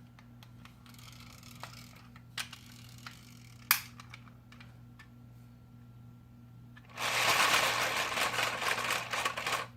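A few light plastic clicks, then about seven seconds in a loud, fast clattering rattle lasting nearly three seconds before cutting off: a wind-up toy car's spring motor spinning and cranking the plastic gears and crank of a LEGO model steam engine.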